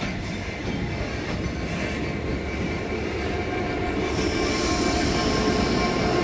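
Railway locomotive running light, getting louder toward the end, with steady tones coming in about four seconds in.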